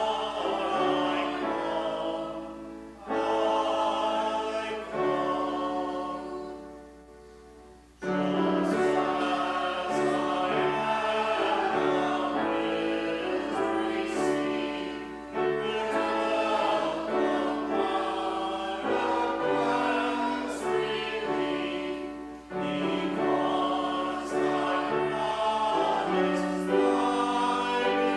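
A hymn sung by many voices with accompaniment, in phrases of held notes. It pauses briefly about three seconds in, then fades to a short break at the end of a line or stanza and resumes about eight seconds in.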